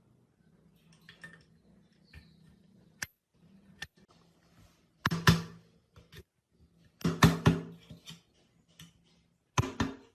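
Hand tools and metal engine or pump parts knocking and clattering in three short bursts, with small clicks between, over a faint low hum.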